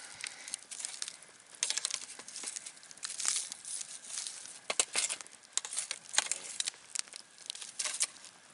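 Wood campfire crackling, with irregular sharp pops and snaps over a faint hiss.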